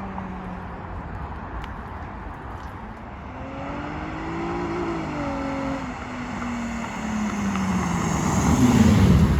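2003 Infiniti G35's 3.5-litre V6 running through a muffler-delete exhaust, with the mufflers cut out. The engine note falls, rises and falls again about halfway through, then grows louder to a peak near the end as the car pulls.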